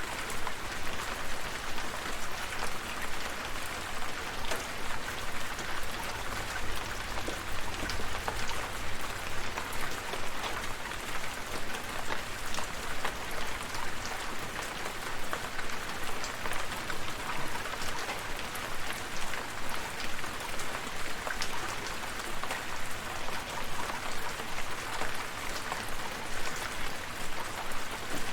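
Steady rain falling, with many individual drops heard as sharp ticks over an even hiss.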